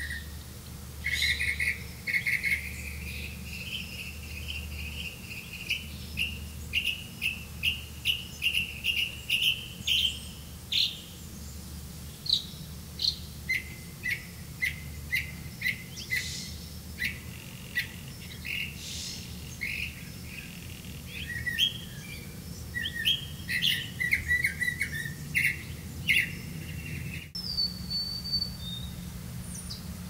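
Small songbirds chirping: a fast series of short, high chirps that climbs in pitch over the first ten seconds, then looser, scattered chirps, and one short falling call near the end, over a steady low hum.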